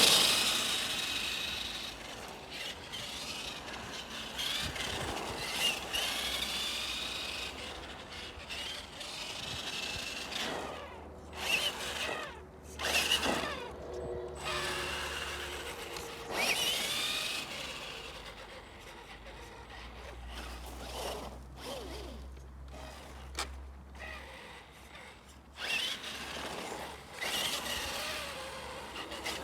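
Tamiya Twin Detonator RC truck's twin 550 electric motors whining in repeated bursts that rise and fall in pitch as the throttle is worked, with the tyres scrabbling over the ground.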